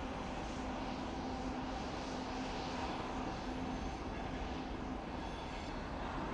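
Steady hum and hiss of idling trains under a station train shed, with a constant low tone running through it.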